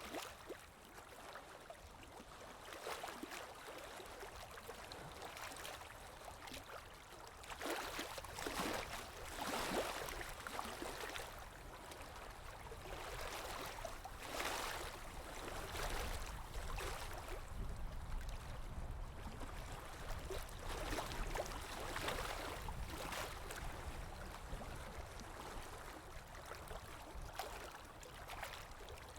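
Ocean waves washing in, a steady hiss of surf that swells and falls back every few seconds.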